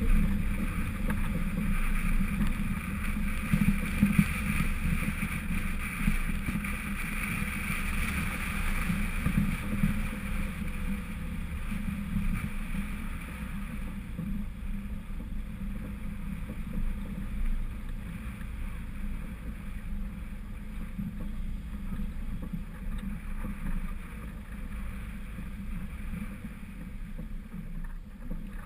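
Lifted 1999 Honda CR-V driving off-road, its engine and drivetrain a steady low rumble, with wind noise on the microphone. A higher rushing noise on top fades out about halfway through.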